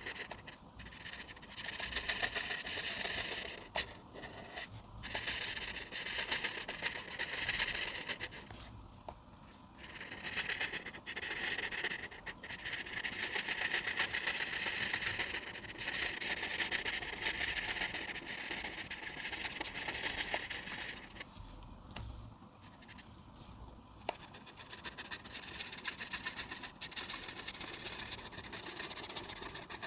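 A coloring tool scratching on paper in long runs of rapid back-and-forth strokes, with brief pauses about nine seconds in and again about twenty-two seconds in.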